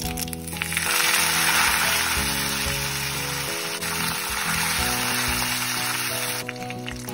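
Curry leaves sizzling loudly as they hit hot oil with fennel seeds in a kadai, stirred with a spatula; the sizzle starts about half a second in and cuts off near the end. Background music plays throughout.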